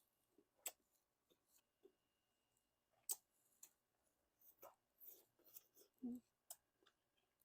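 Near silence broken by scattered faint mouth clicks and soft chewing sounds from a person eating, a few small clicks every second or two.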